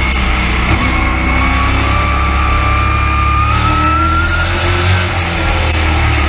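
Race truck's engine heard from inside the cab under steady throttle, with a heavy low drone. Its pitch climbs gradually for a few seconds, then falls back about two-thirds of the way in as the driver lifts.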